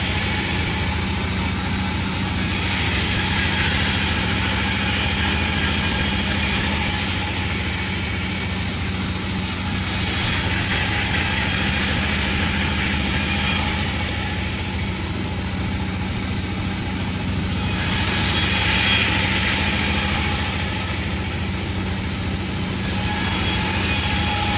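A Panda36 sawmill running steadily with a low, even hum. A hissing rasp from the saw blade cutting bayur wood swells and fades about every seven seconds.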